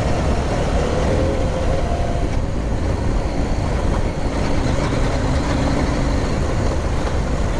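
Adventure motorcycle engine running steadily while riding, with wind rushing over the microphone.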